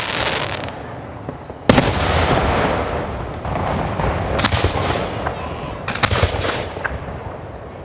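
Fireworks display, shells bursting overhead: a loud bang a little under two seconds in, more bangs around the middle and later, with crackling between them.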